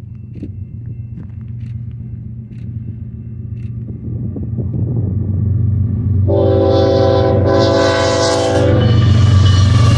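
BNSF intermodal train led by GE ES44C4 diesel-electric locomotives approaching at speed, its low engine rumble growing steadily louder. A little over six seconds in, the lead locomotive's horn sounds one long chord, about two and a half seconds. Near the end the rushing noise of the locomotives arriving swells up.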